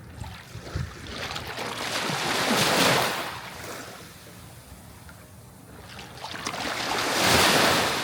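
Sea waves breaking and washing onto the shore, two swells of surf that build and fade about four to five seconds apart, the second peaking near the end.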